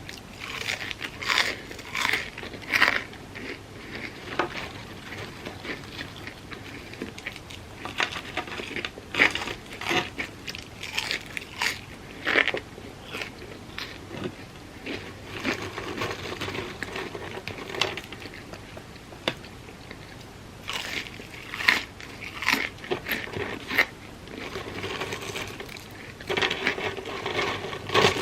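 Close-miked eating: repeated crunchy bites and chewing of crispy fried food, vegan fried "chicken" and fries, in irregular bursts with softer chewing between.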